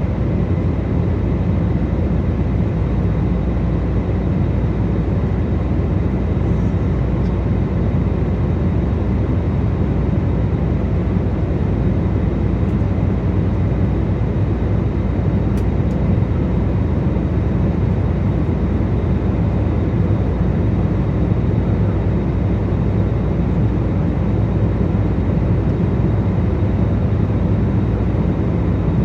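Jet airliner cabin noise in flight: a steady, even rush of engine and airflow noise, heaviest in the low range, with faint steady tones over it.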